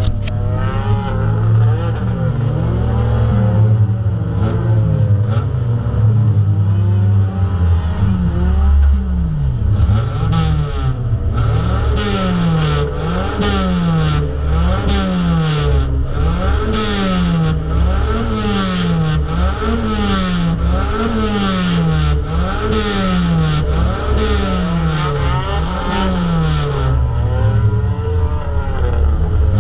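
Derby car's engine heard from inside the car, revving up and down over and over, about once a second through the middle stretch, with scattered knocks and rattles.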